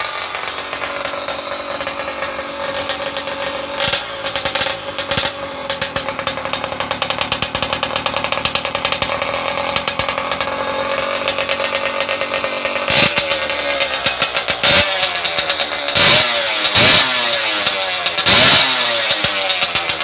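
Skyhawk two-stroke bicycle engine kit, fitted with a dirt bike muffler, running steadily with short throttle blips: two revs about four and five seconds in, then five more in quick succession near the end.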